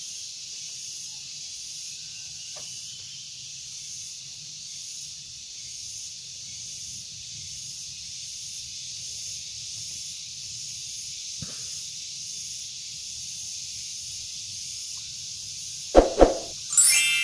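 A steady high hiss with a faint pulsing. Near the end it is broken by two loud short knocks and the start of a ringing metallic ding.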